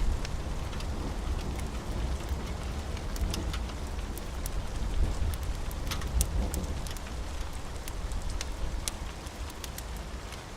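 Steady rain with a low rumble underneath that slowly fades, and scattered sharp pops and crackles.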